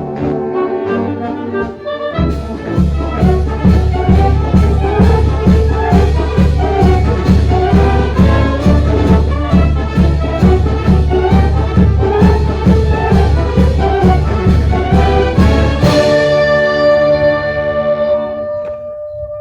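Band music with brass, likely accompanying a clarinet: from about two seconds in, a fast, steady beat of bass notes and chords, then a long held chord near the end that fades away.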